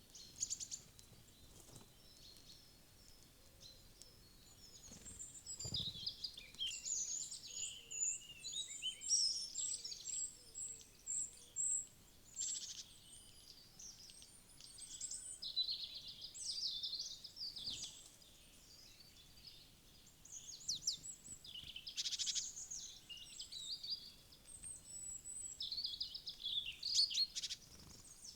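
Several small woodland birds chirping and calling in overlapping, high-pitched notes and trills, sparse at first and busy from about five seconds in, with short lulls.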